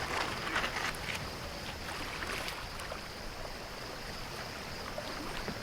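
Kayak paddle strokes dipping and splashing in river water during the first two or three seconds, then a steadier quieter sound of moving water.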